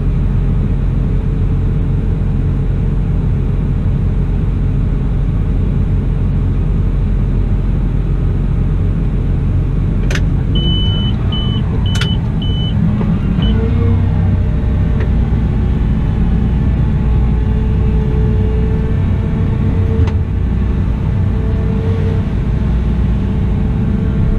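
Cat 972M XE wheel loader's diesel engine and machine running steadily under work. About ten seconds in there are two sharp clicks and a short run of high beeps, and shortly after the engine note turns deeper and heavier.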